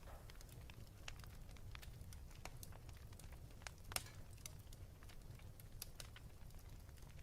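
Wood fire burning in a fireplace: scattered crackles and pops over a steady low rumble, with one sharper pop about four seconds in.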